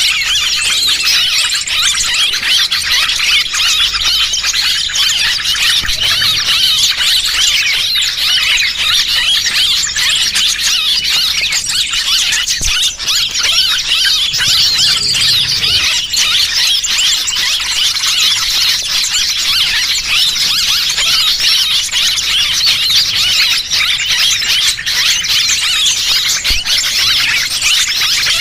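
Dense, unbroken chorus of many small birds' high, fast chirps and twitters, a looped lure call (pikat) for drawing small wild birds in.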